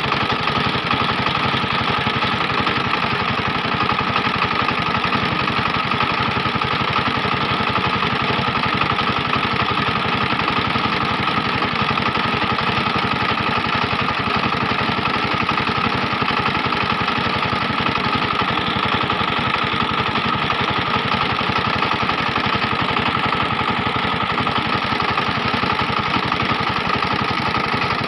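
SIFANG power tiller's diesel engine running steadily, with a constant, even firing beat and no change in speed.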